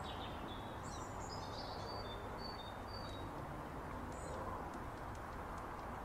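A small songbird singing a series of short, thin, high whistled notes, over a steady faint background noise.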